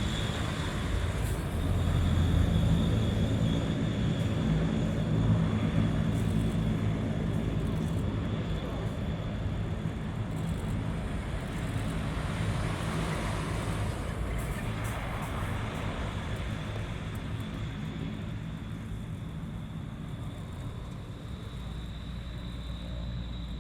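Rolls-Royce Dart turboprop engines of a NAMC YS-11 aircraft running: a low drone with a steady high-pitched whine. It is loudest a few seconds in, then slowly fades.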